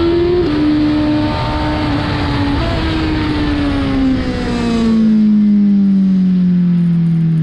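Suzuki GSX-R1000 superbike's inline-four engine running at high revs, with a brief dip in pitch about half a second in. Its revs then fall steadily over several seconds as the bike slows, and the rush of wind stops about five seconds in.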